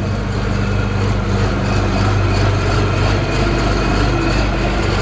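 Tractor engine idling steadily, a low even running note with no revving.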